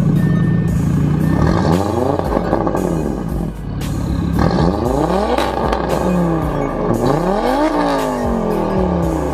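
Audi engine through a muffler- and resonator-deleted exhaust, revving up and dropping back several times.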